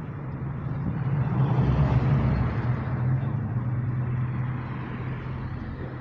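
A car engine's steady low hum, with road traffic noise swelling about two seconds in, as of a vehicle passing close by, then fading.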